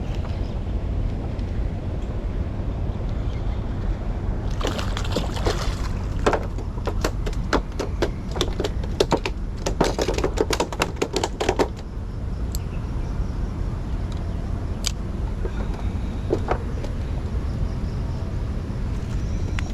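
A rapid run of sharp clicks lasting about seven seconds, followed by a few single clicks, over a steady low rumble.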